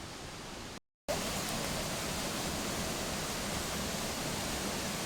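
Steady rushing roar of Koromosho Falls, a waterfall on the Sosiani River. It cuts out for a moment just under a second in and comes back a little louder.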